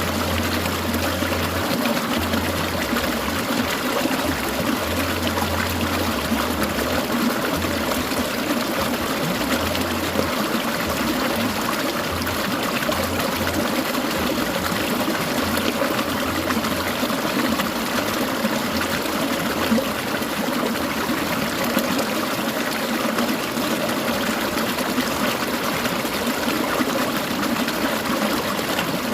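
Clear mountain stream babbling and trickling over stones, a steady, unbroken water sound.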